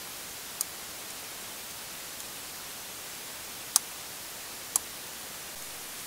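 Steady recording hiss with three light, sharp clicks of small laptop parts being handled: one about half a second in and two more near the four- and five-second marks.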